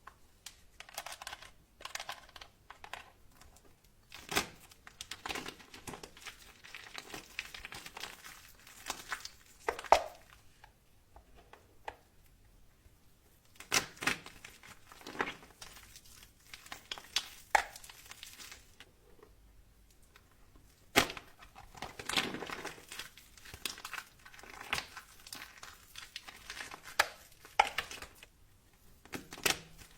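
Soap being cut and crumbled close to the microphone: irregular crisp crumbling and scraping sounds with short pauses, and a few sharp snaps, loudest about a third of the way in and again past the middle.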